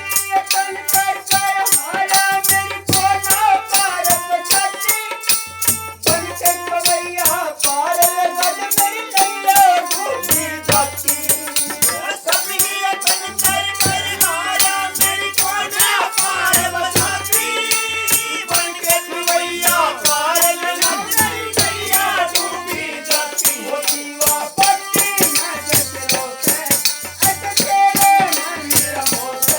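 Devotional bhajan music with a fast, even beat of jingling rattle percussion, a low drum thumping at intervals, held steady tones and a wavering melody line.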